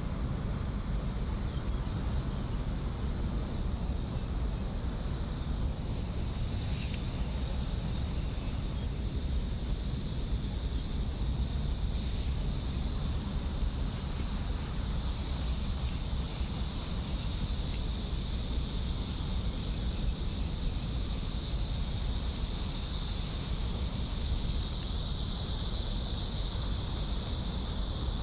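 Outdoor ambience: a steady low rumble, with a steady high-pitched insect drone above it that grows louder in the second half.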